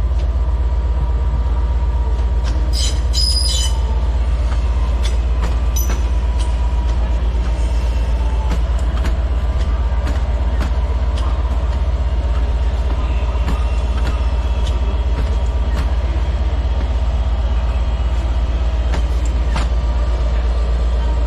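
Steady low drone of a Class 67 diesel locomotive idling at the platform. Over it a Class 323 electric multiple unit arrives, with a brief high wheel squeal about three seconds in and scattered clicks.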